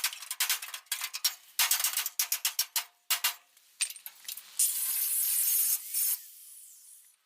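Angle grinder working rusty steel bodywork: at first rapid chattering contact in short bursts, then about four and a half seconds in a steadier stretch of grinding that eases off and stops near the end.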